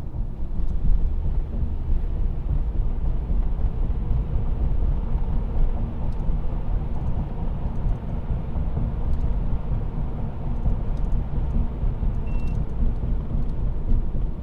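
Steady road and tyre rumble heard from inside a car's cabin while driving through a long road tunnel. A brief high beep sounds about twelve seconds in.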